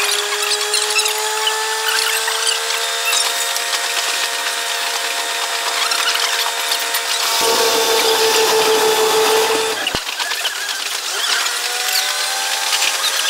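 Diesel railcar running on the line, its sound sped up six times so that the engine becomes a high whine, slowly rising in pitch, over fast clicking. About seven seconds in the tone gets louder and steadier, then it breaks off abruptly around ten seconds and the whine builds again.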